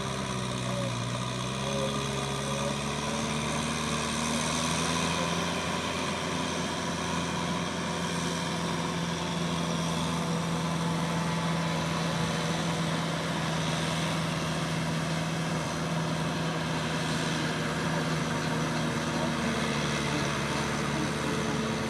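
Kubota M6040SU tractor's diesel engine running steadily under working load. Its note dips briefly near the start, picks back up within a few seconds and then holds even.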